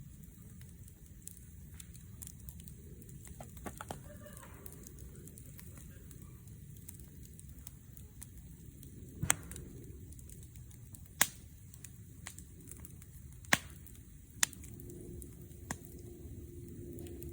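Wood fire burning with a low steady rumble and scattered faint crackles, broken by four sharp pops of burning wood in the second half.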